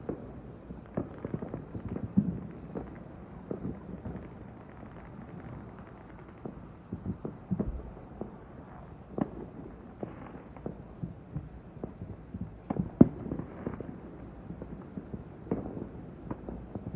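Fireworks going off at a distance: many irregular bangs and pops, one after another, with the loudest bang about thirteen seconds in.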